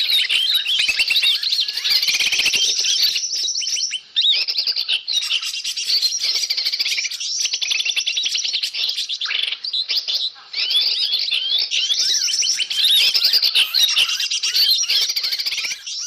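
Dense, noisy chorus of many small birds chirping and twittering over one another, a bird-lure (pikat) recording made to draw wild forest birds in. The chatter breaks off briefly about four seconds in and again about ten seconds in.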